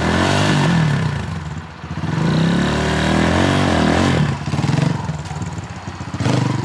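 Dirt bike engine revving hard, the revs rising and falling twice, from a beginner rider giving too much throttle. Rough knocks and clatter follow about four seconds in.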